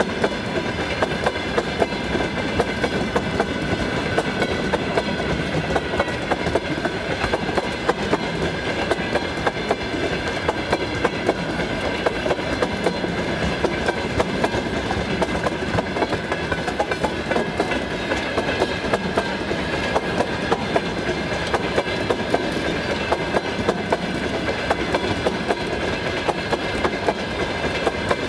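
Freight train of tank cars rolling past, its wheels clicking over the rail joints at a regular beat a little faster than once a second, over a continuous rumble with a steady high-pitched ring.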